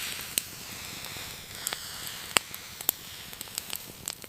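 Wood fire crackling: a steady hiss broken by sharp pops every half second or so, the loudest a little past the middle.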